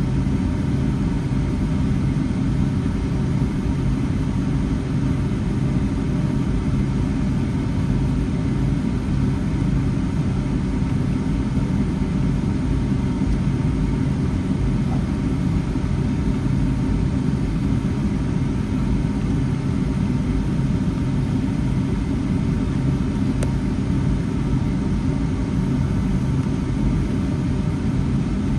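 Steady low rumble of a Boeing 757-300's engines and airflow, heard from inside the passenger cabin.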